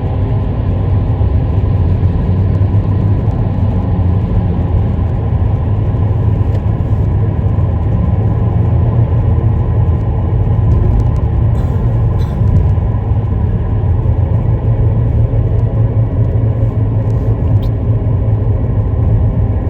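Moving car on the road: a steady low rumble of engine and tyre noise.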